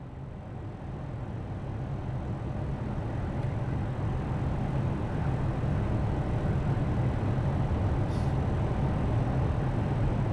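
Steady low rushing noise on the flight deck of an Airbus A320 on final approach, fading up over the first few seconds and then holding level, with a faint tick about eight seconds in.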